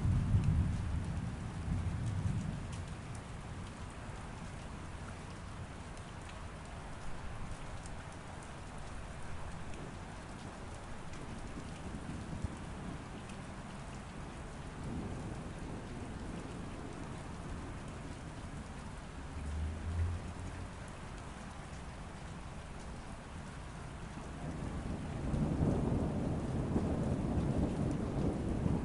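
Steady rain falling, heard from behind a window, with rolls of thunder: a rumble at the start, a short one about two-thirds through, and a longer, louder roll building near the end.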